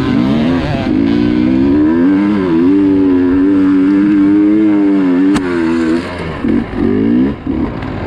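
Dirt bike engine revving hard and held at high revs. About six seconds in it drops off, then comes back as a few quick throttle blips, with one sharp click just before the drop.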